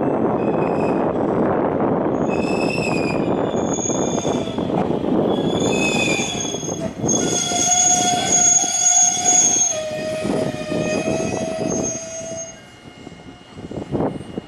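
Tobu Railway train running through the station: a heavy rumble with several high-pitched squealing tones over it, and a mid-pitched tone that steps down a little. It all fades away after about twelve seconds.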